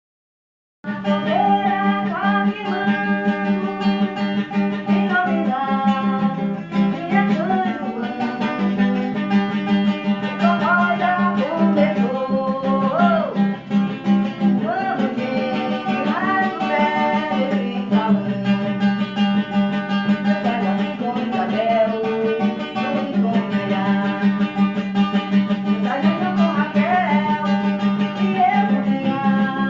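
Acoustic guitar music strummed in a steady rhythm, starting about a second in, with a sliding melody line over it.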